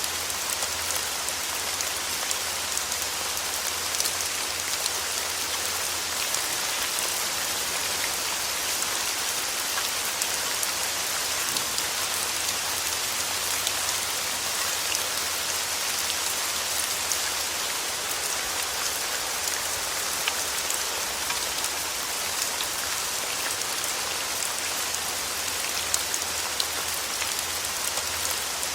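Steady rain falling, an even hiss with a dense patter of individual drops.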